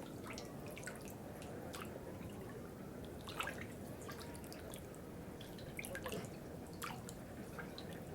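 Water dripping: irregular single drops, the loudest about three and a half seconds in, over a steady low background.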